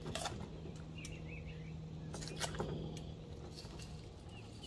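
Small birds chirping in the background, short high chirps every second or so, over a steady low hum, with a few sharp clicks about two to three seconds in.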